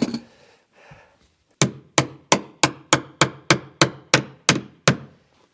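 A hammer driving a cap nail into wood: about eleven quick strikes in a steady rhythm, roughly three a second.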